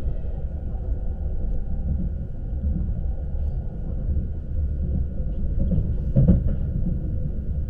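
Lastochka electric train running, heard from inside the carriage as a steady low rumble. About six seconds in there is a brief, louder knock.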